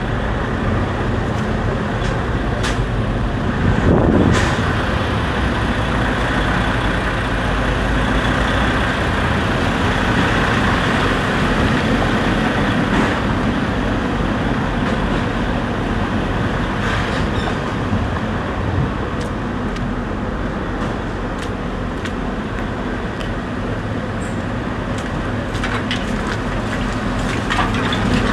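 A heavy vehicle engine running steadily, with a few sharp knocks or clanks.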